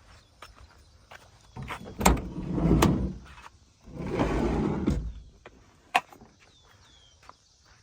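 A 1994 Suzuki Every kei van's sliding side door being opened and shut. A sharp latch knock comes about two seconds in, then two rolling runs of the door along its track, each about a second long, and a sharp latch click near the end.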